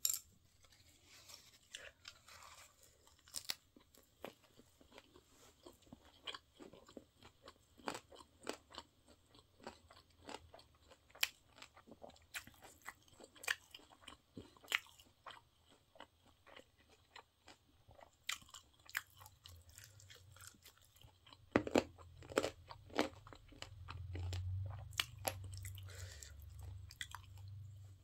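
Close-up chewing of crunchy spicy stir-fried pork cartilage (odolppyeo): sharp, irregular crunches, loudest a little after the middle. A low hum rises in the last few seconds.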